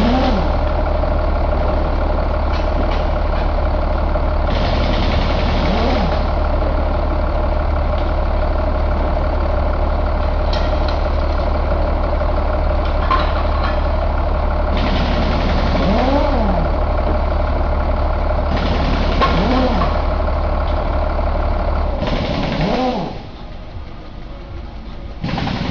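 Caterpillar 3116 turbocharged inline-six diesel engine running steadily, its revs blipped up and back down about five times. About 23 seconds in, the deep rumble drops away and it gets quieter.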